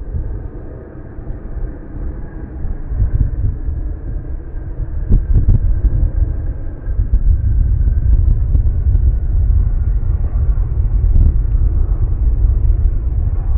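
ATR 72-600 turboprop airliner's engines: a steady low rumble with faint steady tones above it, growing louder about halfway through. A few short clicks near the middle.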